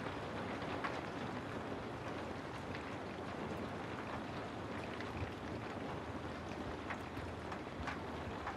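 Steady rain: an even hiss with a few faint scattered clicks of drops.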